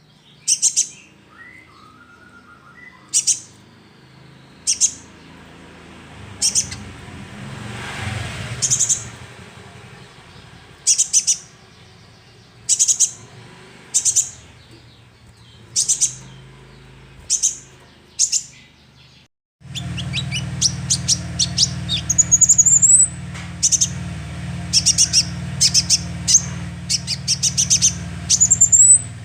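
Young sunbird (konin) calling: single sharp, high chirps every second or two, then, after an abrupt cut about two-thirds of the way through, a quicker run of twittering chirps and short trills over a low hum.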